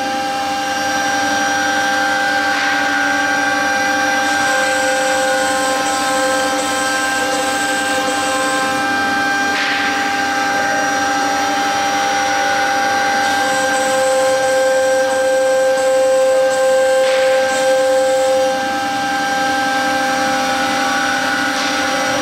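Air-cooled CNC router spindle whining steadily while it cuts fiber board, with several fixed tones over a rushing noise. Three brief louder surges of noise come about seven seconds apart.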